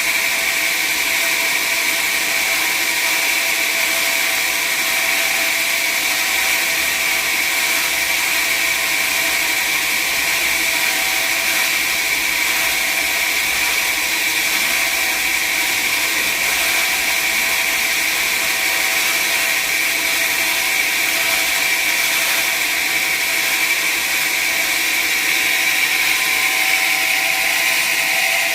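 Sawmill saw running through acacia wood, a loud, steady whine over dense noise that never breaks.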